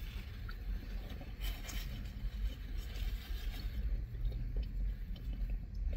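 People chewing mouthfuls of a burger, with small faint clicks of eating and a paper wrapper handled, over a steady low hum inside a car's cabin.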